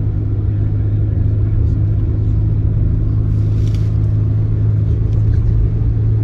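A car running steadily, with a low engine hum and road rumble.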